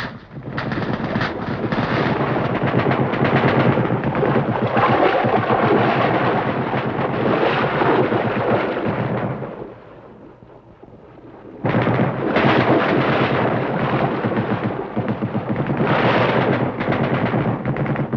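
Sustained rapid automatic gunfire from a firefight, a dense crackle of shots. It dies down for a second or two about ten seconds in, then starts again abruptly.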